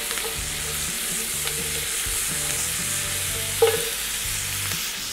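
Bacon, onion and freshly added bell pepper sizzling steadily in a cast-iron Dutch oven while being stirred with a wooden spoon.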